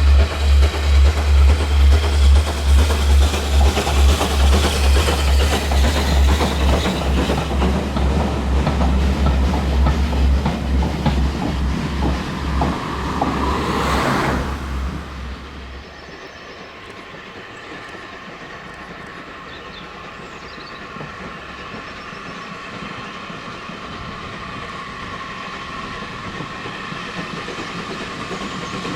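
A train passing on a heritage steam railway, its wheels clattering over the rail joints in a regular beat that dies away about halfway through, leaving a fainter steady sound.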